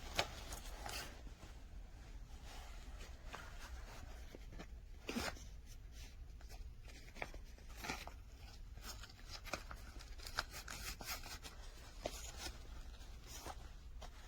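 Faint handling noises: scattered light clicks and rustles, strongest about five seconds in, of things being handled at close range.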